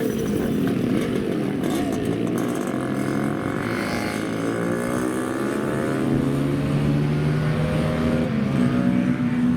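Several old motorcycle engines running and revving together, their pitch rising and falling.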